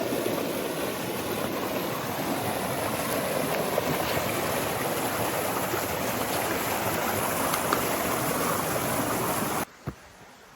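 Creek water rushing and babbling steadily over rocks, cutting off abruptly near the end to a much quieter background.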